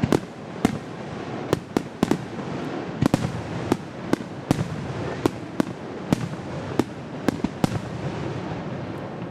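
Fireworks display: an irregular run of sharp bangs, about two a second, over a continuous rumble of echoing bursts.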